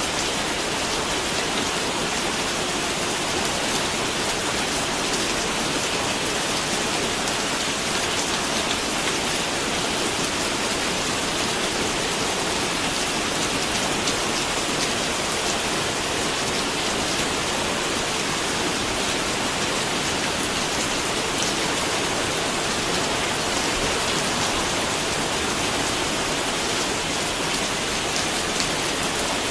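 Steady rain falling and pattering on a surface, an even hiss with fine scattered drop ticks.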